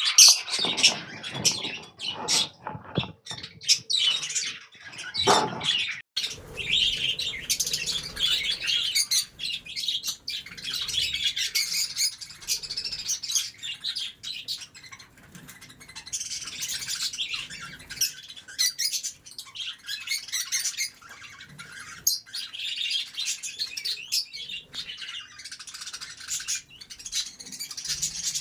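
A flock of budgies chattering and chirping continuously, with some knocks and rustles in the first few seconds.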